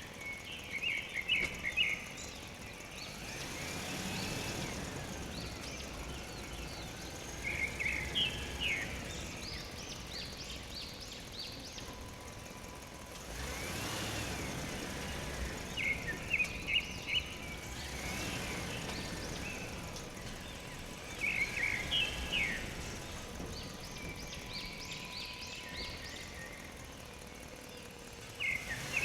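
Bird chirping in short bursts of quick notes that recur every several seconds, over a steady outdoor background hum.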